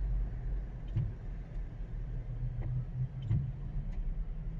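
Steady low road rumble of a moving car heard from inside the cabin, with a few faint ticks and knocks spaced about a second apart.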